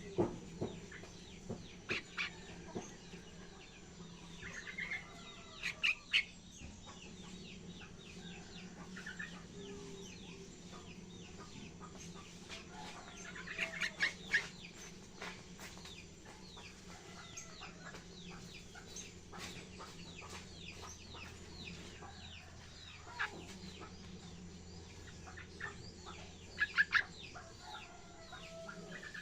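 Young yellow-vented bulbul (trucukan) giving short, sharp chirps and brief practice phrases of song. They come in scattered clusters, loudest about 2, 6, 14 and 27 seconds in, over a low steady hum.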